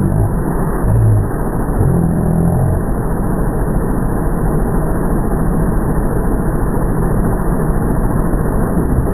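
Massey Ferguson 165 tractor engine running steadily and loud, with a few brief swells in pitch in the first few seconds.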